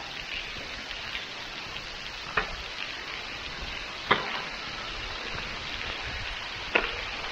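Water dripping and trickling from a tunnel ceiling, a steady patter with three louder drops striking close by.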